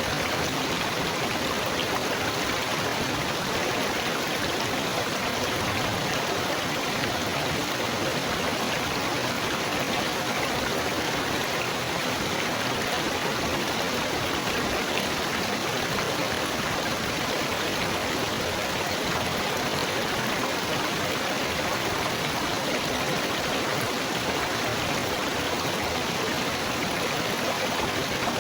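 Running water babbling and splashing steadily, like a small stream or fountain.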